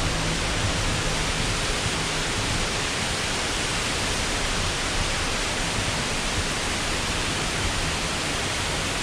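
Waterfall pouring, a steady dense rush of falling water heard close at hand.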